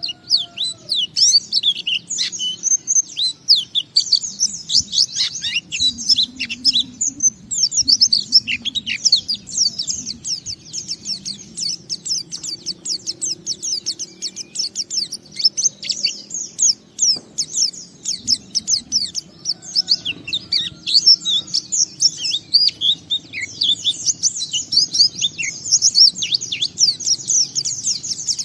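Pleci (white-eye, Zosterops) singing a long, fast twittering song of quick high notes that run on with only brief pauses, the continuous full song that keepers call ngalas.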